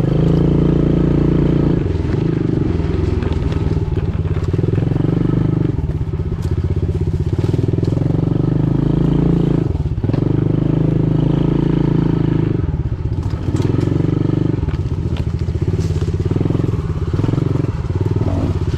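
Pit bike engine running while riding, its revs rising and falling with the throttle and dropping briefly several times.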